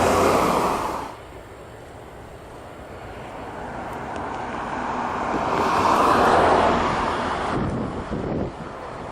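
Aircraft engine noise swelling and fading as planes pass, cut off abruptly about a second in, then building to a second, louder peak past the middle before falling away. Wind buffets the microphone.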